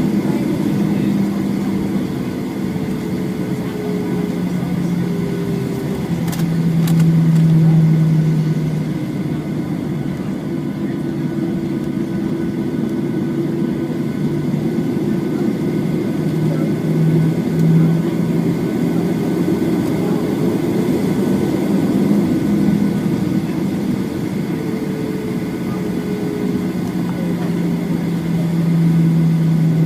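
Boeing 737-8's CFM LEAP-1B jet engines running, heard inside the passenger cabin: a steady rumble with engine hums that drift slowly up and down in pitch.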